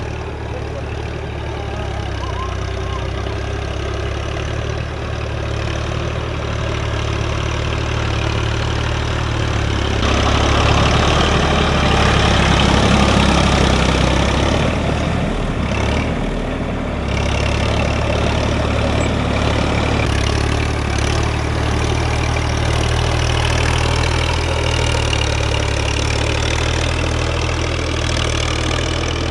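Tractor engine running steadily, growing louder for several seconds about a third of the way through, then settling back to an even run.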